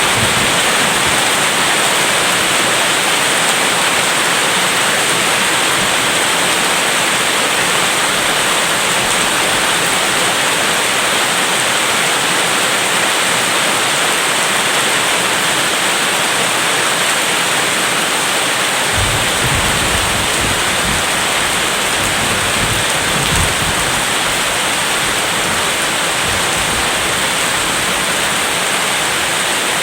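Heavy rain falling steadily, an even hiss. About two-thirds of the way through, a low rumble of distant thunder rolls in for around five seconds.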